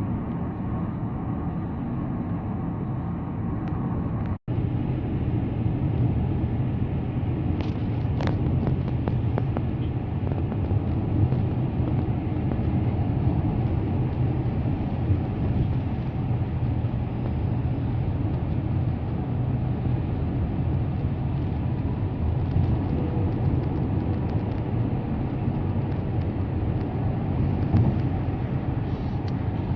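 Steady road noise of a car being driven: a low rumble of tyres and engine with a hiss of tyres and wind above it. A split-second dropout breaks it about four seconds in.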